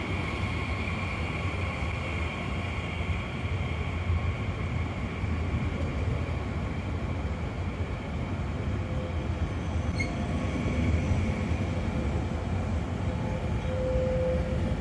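Twindexx double-deck regional train rolling past: a steady rumble of wheels on the track, with a faint high whine that fades after a few seconds.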